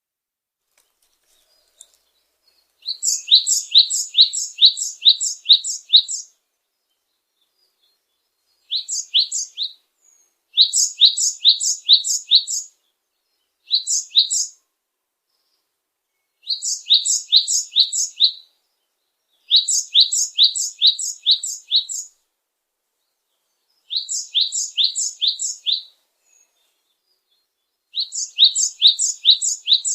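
A songbird singing short phrases of rapid, repeated high chirping notes, about three notes a second, each phrase one to three seconds long with pauses between; eight phrases in all.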